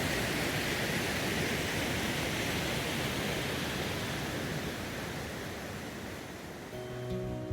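Steady rushing outdoor noise, such as running water or wind, fading near the end as acoustic guitar music comes in.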